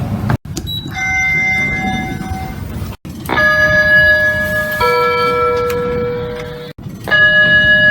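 Elevator arrival chimes from three different lifts in quick succession: a single chime tone, then a two-note chime stepping down to a lower note, then another single chime.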